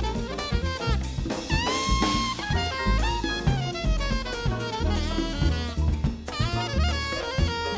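Live small-group jazz: a saxophone playing a fast melodic line over drum kit and band.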